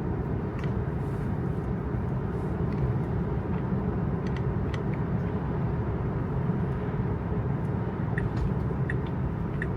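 Steady tyre and road noise inside an electric Tesla's cabin on a wet road, with scattered faint clicks. Near the end a turn signal starts ticking about twice a second as the car changes lanes.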